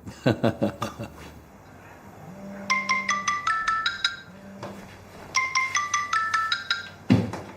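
Mobile phone ringing with a marimba-style ringtone: a quick run of about eight bright notes stepping upward, repeated twice.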